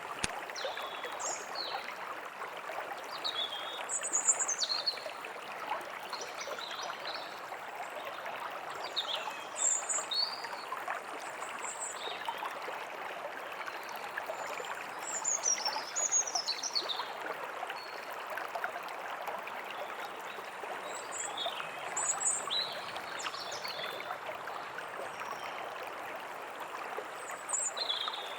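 A forest stream flowing steadily, with small birds chirping in short bursts of high, falling calls every few seconds.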